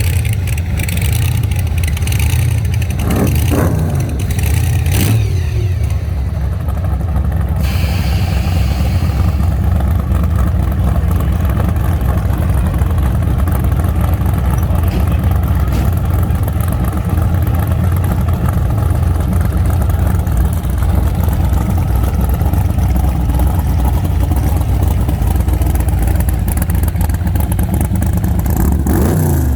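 Motor vehicle engine running with a steady low rumble, with a few brief rises and falls in pitch as engines rev.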